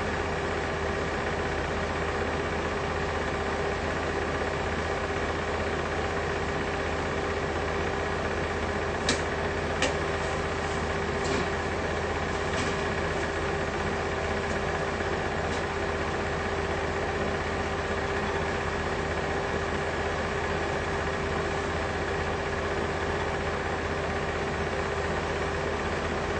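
Steady mechanical hum with a held tone, unchanging throughout, with a few faint clicks about nine to thirteen seconds in.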